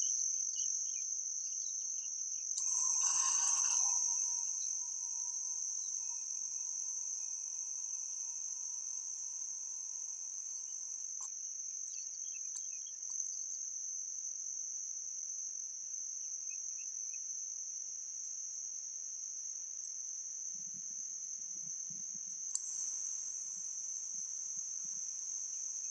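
Insects trilling steadily in one continuous, unbroken high-pitched note, with a brief rush of noise about three seconds in.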